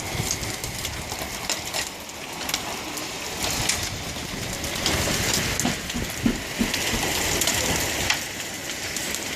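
Hail and rain pelting down: a steady dense hiss scattered with sharp ticks and cracks as hailstones strike hard surfaces.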